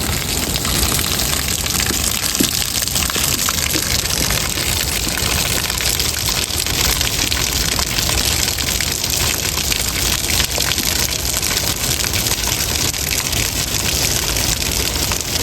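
Heavy rain falling: a loud, dense hiss of countless drops hitting a surface.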